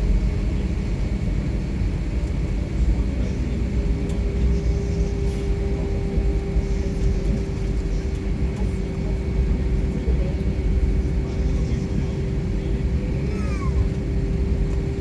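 Airliner engines heard from inside the passenger cabin during takeoff: a loud, steady low rumble with a steady droning tone above it.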